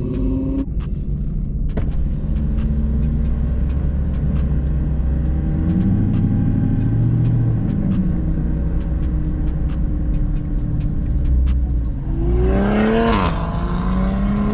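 Dodge Charger's V8 engine pulling along a highway with a steady low drone. A rising rev cuts off in the first second, and about twelve seconds in it revs hard, climbing in pitch, dropping sharply at a gear change, then climbing again.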